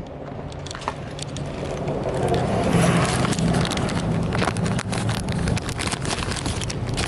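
A motor vehicle's engine running nearby, growing louder over the first three seconds and then holding steady, with scattered small clicks and knocks over it.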